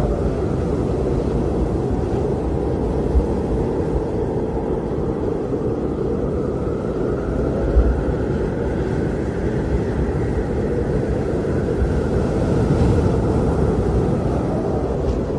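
Blizzard wind blowing steadily: a low rumble with a higher howling band that slowly rises and falls, and two brief low thumps about three and eight seconds in.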